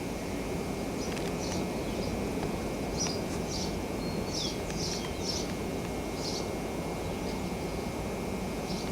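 Birds chirping in short, scattered high calls, some sliding downward, over a steady low rushing outdoor noise.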